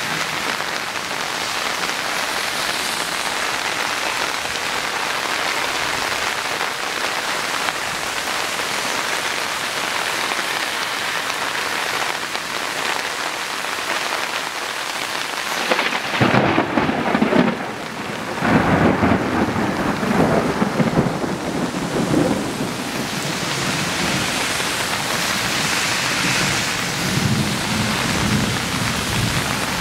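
Heavy rain falling steadily on ground, plants and paving, with a rumble of thunder lasting several seconds about halfway through.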